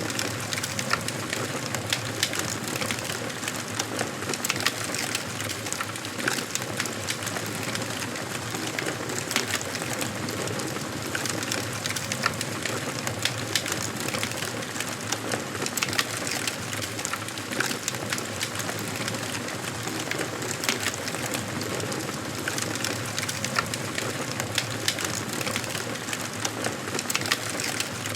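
Wood fire burning in a fireplace: a steady hiss with frequent sharp crackles and pops of burning logs.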